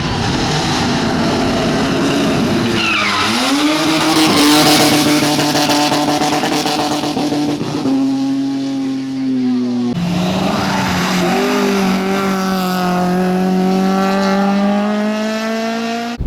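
Rally car engine running hard on a hill climb, its note dropping sharply about three seconds in and climbing again, then shifting abruptly about eight and ten seconds in as gears change.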